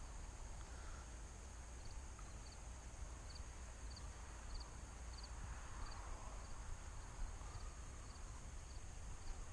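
An insect chirping in a steady rhythm, about two short high chirps a second, starting a couple of seconds in, over low wind rumble on the microphone.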